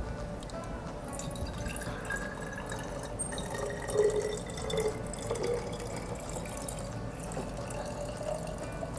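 Water being poured from a container into a glass jar, a steady trickle and splash.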